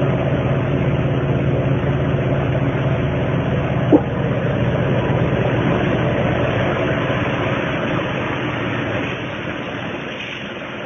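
A machine running steadily with a low hum, with one sharp click about four seconds in; it gets quieter over the last few seconds.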